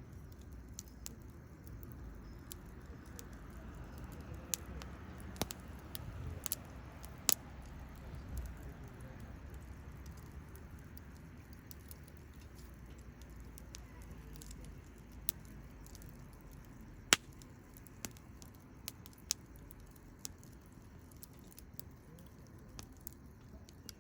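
Wood fire crackling, with irregular sharp pops over a low steady rumble of the flames; the loudest pops come about a third of the way in and again past the middle.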